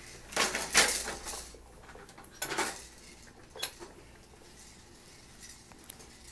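Hard objects clattering and clinking in a few short bursts, the loudest about a second in, then another clatter around two and a half seconds and a single knock near three and a half seconds.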